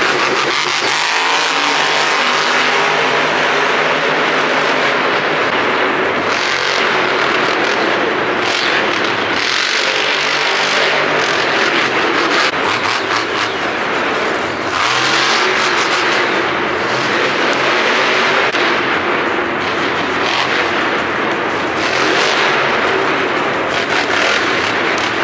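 Monster truck engines running hard and revving throughout.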